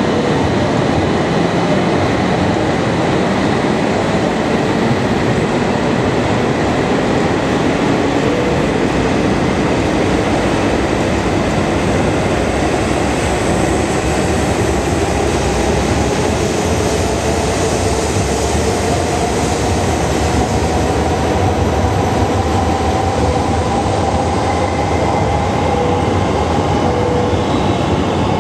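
Tohoku Shinkansen train running at the platform with a loud, steady rumble. The electric motor whine climbs steadily in pitch through the middle and later part, as a train pulling away and gathering speed.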